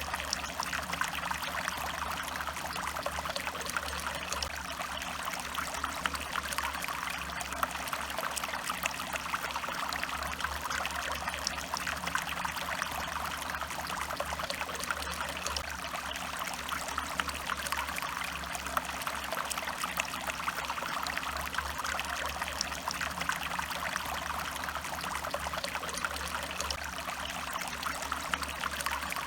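Small stream of water trickling and splashing steadily over stones, with a low rumble underneath.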